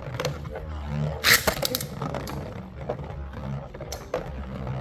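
Beyblade tops (Lightning L-Drago and Storm Pegasus) launched with a ripcord launcher: a sharp rasping rip about a second in, then the tops spinning and clicking against each other and the plastic stadium. The launches are weak ones, which the player calls bad.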